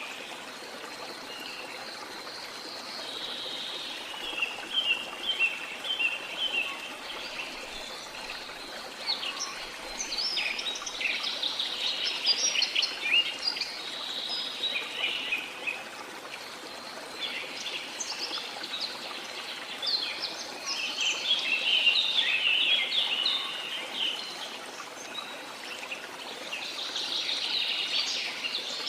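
Flowing river running steadily, with birds chirping over it in repeated quick bursts of high calls that come and go every few seconds.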